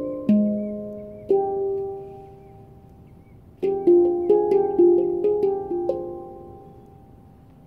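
Pantheon Halo handpan tuned to the AG la Sirena scale, played by hand: single ringing notes that die away slowly, two notes about a second apart, a pause, then a quick run of several notes near the middle that fades out toward the end.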